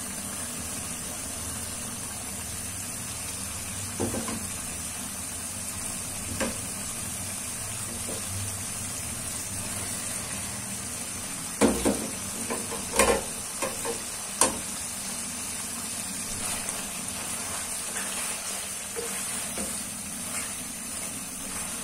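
Chicken and yogurt masala sizzling steadily in a karahi while boiled moringa pods are added and stirred in, with a few short knocks against the pan, most of them a little past halfway.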